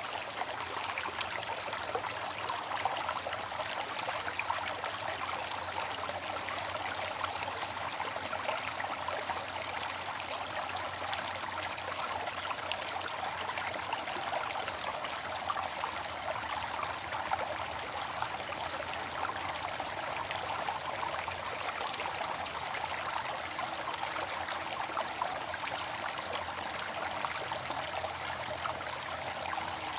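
Water fountain splashing and trickling steadily, many small drops and streams falling into water.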